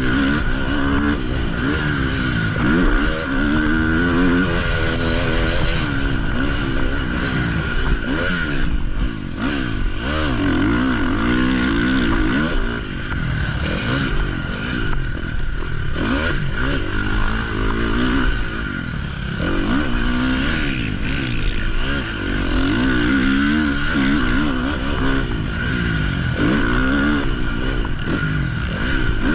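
Motocross dirt bike engine being ridden hard around a track: it revs up, shifts and backs off again and again, its pitch repeatedly climbing and falling, heard from a helmet-mounted camera.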